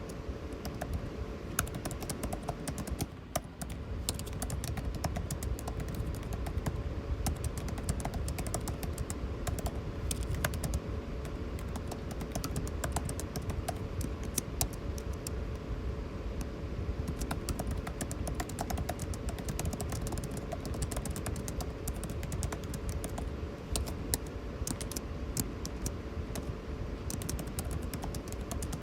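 Continuous, rapid typing on a computer keyboard, with irregular key clicks, over the steady hum of air conditioning.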